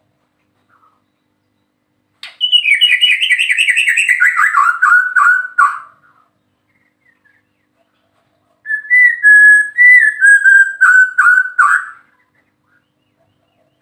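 White-rumped shama singing two song phrases. The first is a fast run of repeated notes sliding down in pitch; the second, after a pause of a few seconds, is a string of clear whistled notes cut by sharp clicks.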